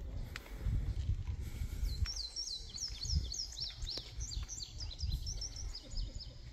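A songbird singing a fast run of high chirps that each slide downward, starting about two seconds in and lasting several seconds, over a low outdoor rumble.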